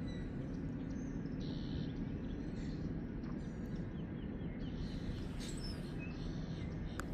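Birds chirping in short, scattered calls over a steady low outdoor rumble, with one sharp click near the end.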